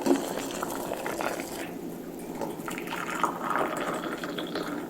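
Liquid bubbling and sloshing in a cooking pot, with a few light clicks.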